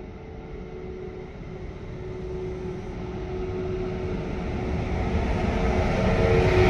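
A train approaching along the line, its rumble growing steadily louder, with a steady two-note hum over it.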